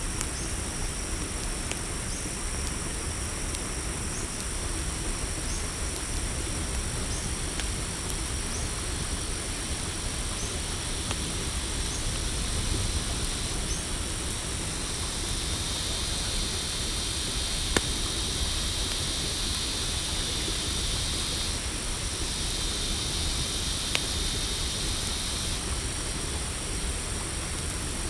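Night insects, crickets among them, trilling steadily in high continuous tones over a low steady rumble. A second buzzing insect chorus joins about halfway through for several seconds. A couple of sharp campfire pops.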